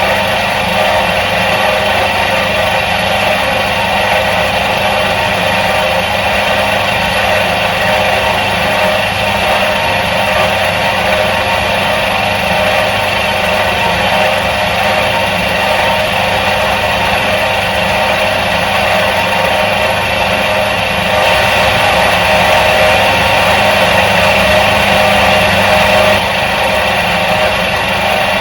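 Electric motor of a 1977 Soviet washing machine running with a steady hum, a little louder for about five seconds near the end.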